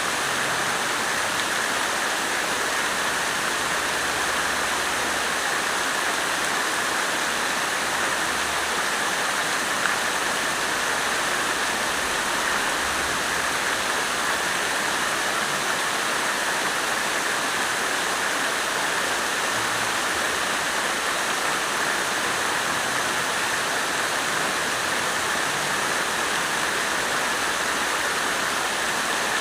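Water fountain splashing in a steady, even, unbroken rush of falling water.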